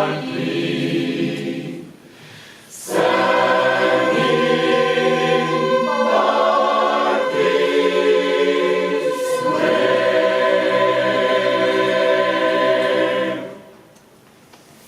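Jazz choir singing the final long-held a cappella chords of the song, with a short break for breath about two seconds in and two chord changes. The choir releases the last chord near the end.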